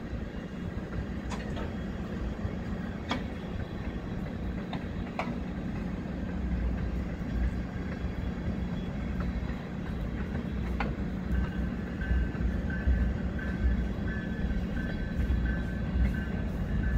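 Freight train of tank cars rolling slowly past, a steady low rumble of wheels on rail with a few sharp clanks. From about eleven seconds in a thin high squeal comes and goes.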